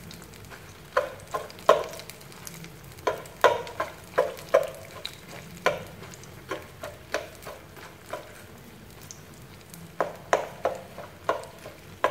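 Bean curd skin sheets sizzling in shallow oil in a pan. A metal fork and chopsticks prick and prod them, making irregular sharp clicks and taps against the pan, with a pause of about two seconds late on. The pricking is done to stop the sheets from puffing up.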